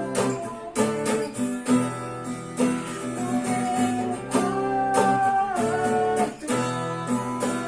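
Instrumental music: an acoustic guitar strumming chords with held notes from other instruments, in a song's instrumental break between sung lines.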